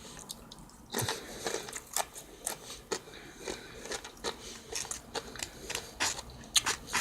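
A person chewing a mouthful of taco salad with tortilla chips close to the microphone: irregular crisp crunches, about two a second, starting about a second in.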